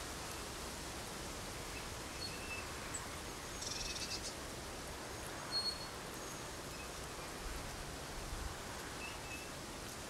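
Steady outdoor hiss with scattered faint, high-pitched bird chirps, including a quick run of notes a little under four seconds in and a short sharp chirp about a second and a half later.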